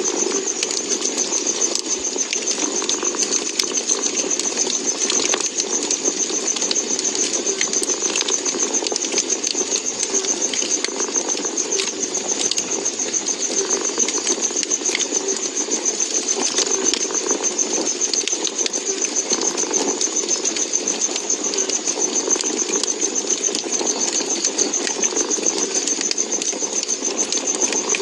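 A cat purring steadily in a fast, even pulse, with a wood fire crackling alongside in scattered sharp pops.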